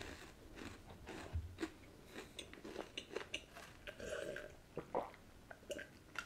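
Faint chewing and small mouth clicks, then swallowing as a drink is taken from a glass mug about four seconds in.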